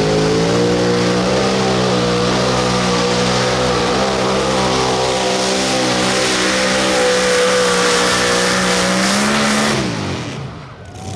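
Modified pulling tractor's engine running at full revs under load down the track, its pitch climbing briefly at the start and then holding. The pitch drops away sharply about ten seconds in as the throttle is cut at the end of the run.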